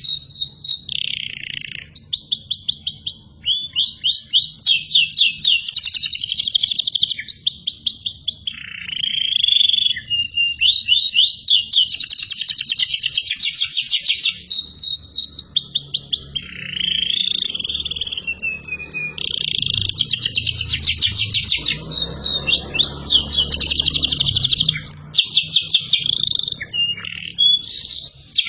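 Domestic canary in full song: long phrases of very fast high trills, rolling into shorter lower gliding notes, with brief pauses between phrases.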